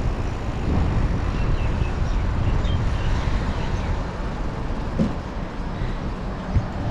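Wind rushing over the microphone and road traffic noise while riding a bicycle, a steady low rumble.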